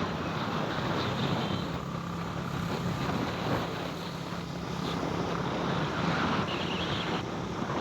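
Vehicle running along a road, a steady low hum under wind buffeting the microphone.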